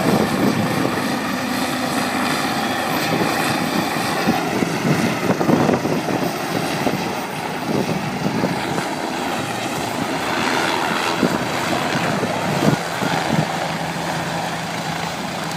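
Helicopter running loud and steady, its rotor and engine giving a continuous noise with steady tones running through it.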